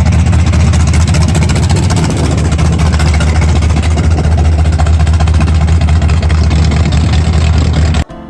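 Show car's engine running loud and steady with a dense exhaust rumble, cutting off suddenly near the end.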